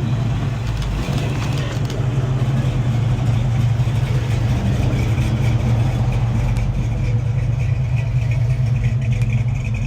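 Car engine running steadily at low speed close by, a low steady hum.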